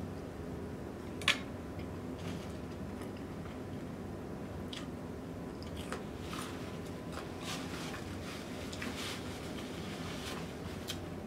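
Close-miked chewing of a mouthful of seafood boil with sauce, lips closed: soft wet squishes and small scattered clicks, with one sharp click about a second in.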